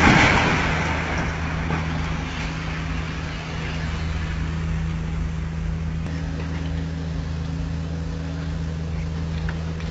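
A heavy machine's engine running steadily, with a loud burst of noise right at the start that fades over about a second.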